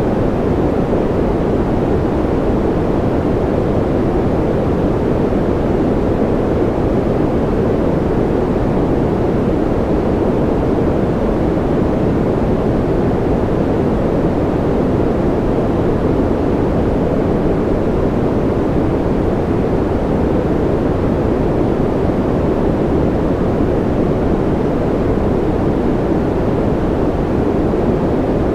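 Continuous white-noise track: a steady, unbroken hiss, deep-toned, with little treble.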